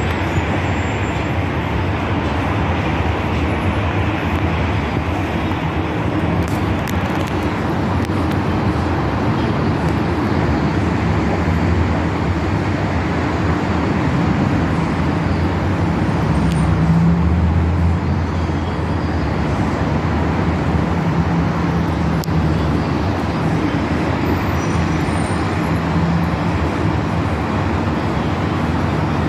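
Steady road traffic noise with a low engine hum, one vehicle passing louder about seventeen seconds in.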